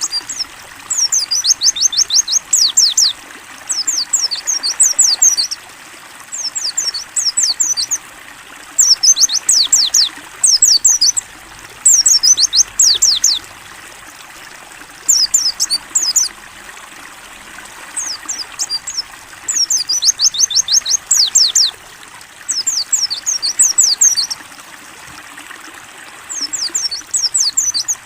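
White-eye (pleci) singing in repeated high, rapid phrases of quick descending notes, each a second or two long with short pauses between, over a steady trickle of running water.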